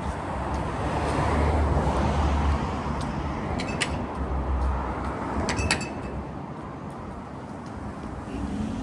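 Street traffic: a passing vehicle's low engine and tyre rumble swells to its loudest between about one and three seconds in, then eases. A few sharp clicks come near the middle.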